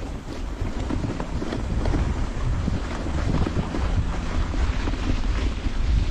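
A dog sled moving along the trail, its runners hissing and scraping over the snow with scattered small rattles and knocks. Wind is buffeting the microphone.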